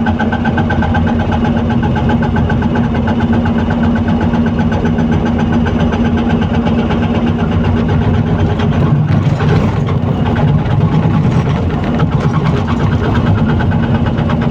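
Excavator's diesel engine running steadily, with a brief rougher noise about nine seconds in.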